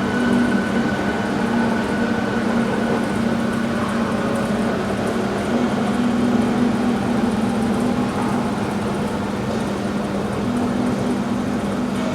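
Rubber-tyred VAL automatic metro train running, a steady mechanical hum with a constant low tone and a higher whine that fades over the first few seconds.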